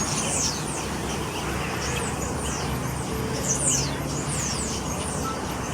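A flock of small aviary birds calling, many short high-pitched chirps that fall in pitch, thickest about half a second in and again around three and a half to four seconds, over a steady background hum.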